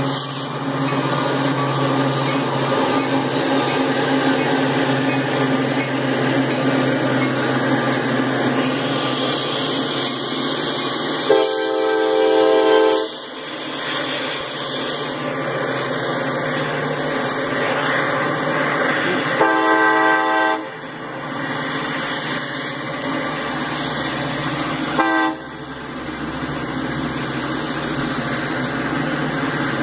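Freight train led by two EMD SD40-2 diesel locomotives, their engines running as they approach and pass over steady wheel-and-rail noise. The locomotive horn sounds two long blasts about a third and two thirds of the way in, then a short one, the grade-crossing signal.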